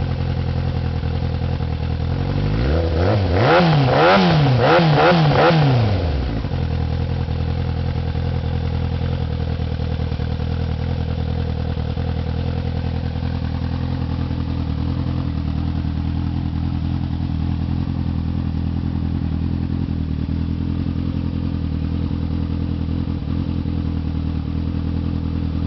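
Yamaha R1 inline-four sport-bike engine through a homemade shorty exhaust with a Yoshimura baffle and packing, idling. About three seconds in it is blipped up and down about four times in quick succession, then settles back to a steady idle.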